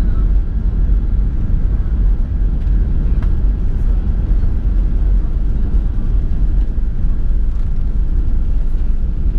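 Steady low rumble of cabin noise aboard an Airbus A380 airliner, with a few faint ticks over it.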